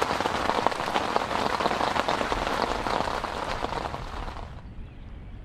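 Heavy rain falling steadily, with many close drop strikes heard among the hiss. It fades away about four seconds in.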